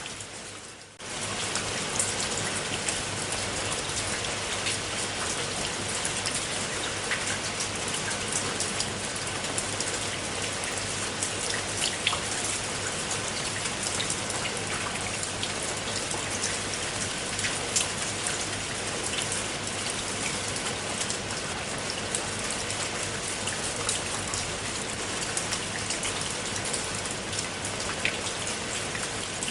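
Steady rain falling, with many individual drops ticking sharply through the even hiss. The sound dips briefly about a second in, then carries on unchanged.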